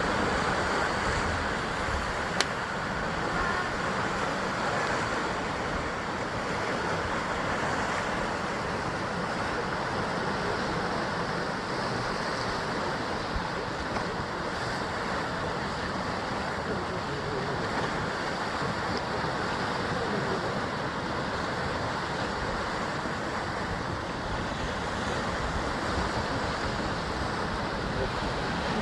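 Sea surf washing and breaking against the basalt rock columns of a volcanic coastline, a steady, unbroken rush of waves. A single sharp click sounds about two seconds in.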